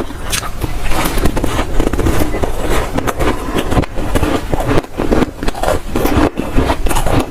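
Dry, soft freezer frost being bitten and chewed close up: a dense, continuous run of crisp crunching crackles.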